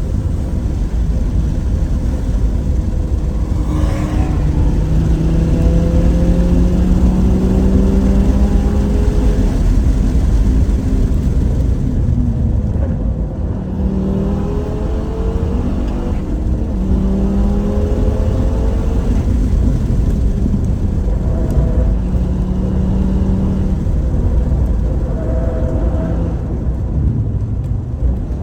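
Car engine heard from inside the cabin, repeatedly climbing in pitch under hard acceleration and dropping back at each gear change or lift, over heavy wind and road rumble at track speed.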